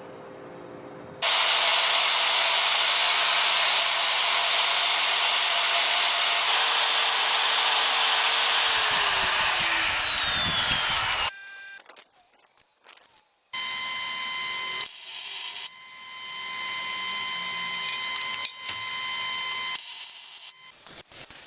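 High-speed electric power tool running loud with a high whine, switched off about nine seconds in, its whine falling as it spins down. After a short gap a quieter machine hum with a steady tone starts, with scattered clicks and knocks.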